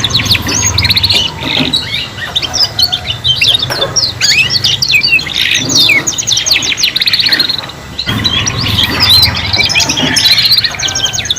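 Several domestic canaries singing at once: fast trills and rolls of rapidly repeated high notes, overlapping without a break, with a low hum underneath at times.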